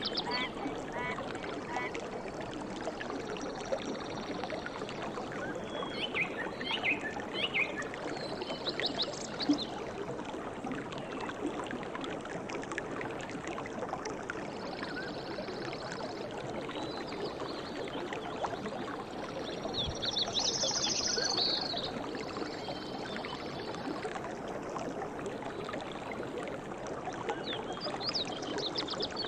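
Stream water flowing steadily, with short high bird chirps now and then.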